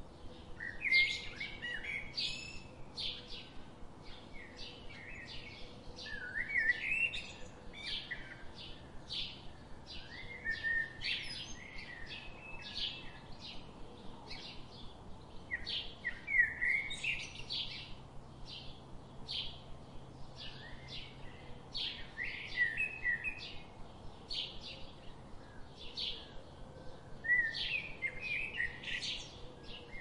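Birds singing: one bird repeats a short high chirp about twice a second, and a louder warbling phrase from another bird breaks in every five seconds or so.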